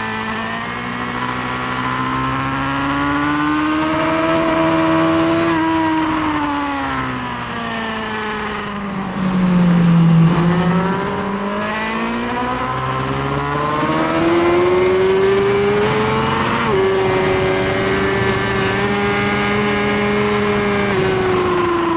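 Inline-four engine of a 2018 Suzuki GSX-R1000R at track speed, revs rising and falling through the gears. Partway through, the pitch sinks to its lowest with a loud rasp as the bike slows, then climbs again. Near the end the pitch drops sharply at an upshift and holds high, over a steady rush of wind.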